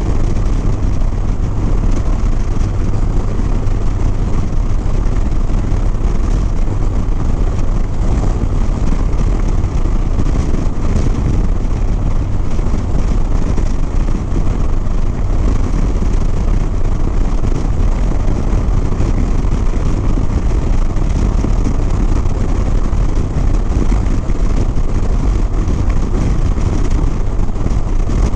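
Harley-Davidson Sport Glide's V-twin engine running at a steady cruising speed, mixed with constant wind rush over the rider's microphone.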